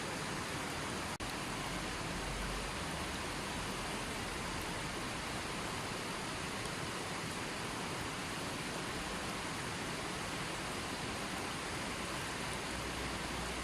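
Running water: a steady, even rushing with no change, broken only by a momentary dropout about a second in.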